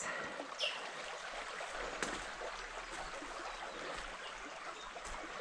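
Freshwater creek running, a steady even rush of flowing water.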